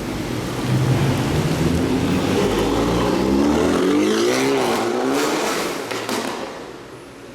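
A supercar's engine accelerating hard past, its pitch climbing steadily, then dropping as it goes by and fading away near the end.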